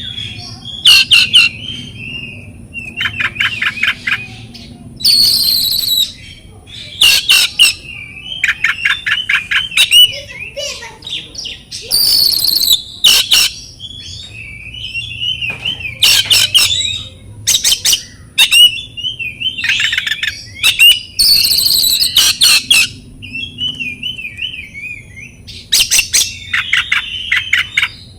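Oriental magpie-robin (kacer) singing loudly. Its varied song mixes whistled phrases, fast rattling runs of repeated notes and harsh, very high bursts, one after another with short pauses.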